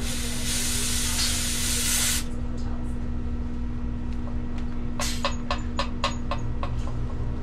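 Refrigerant hissing out of a charging hose for about two seconds as the hose is purged of air, then a quick run of about seven sharp clicks about five seconds in, over a steady low hum.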